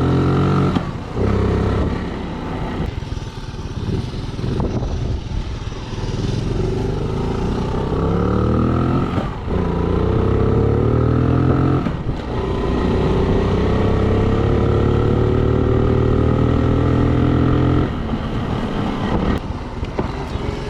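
Small motorcycle engine accelerating, its pitch climbing and dropping back several times as it shifts up through the gears. It then holds a steady pitch for a few seconds before easing off near the end.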